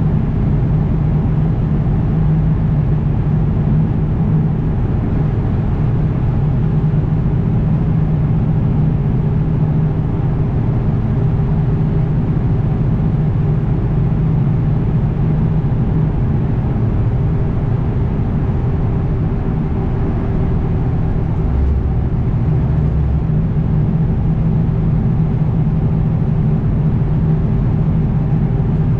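Diesel engine of a Kenworth W900 semi truck running steadily under way, a constant low drone with road noise and no change in pitch.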